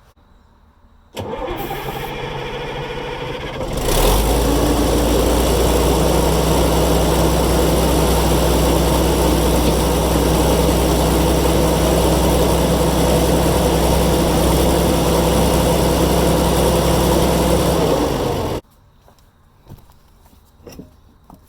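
Fiat-Allis 11-B dozer's diesel engine turned over by its starter for about three seconds, catching and running steadily, then shut off abruptly about fourteen seconds later.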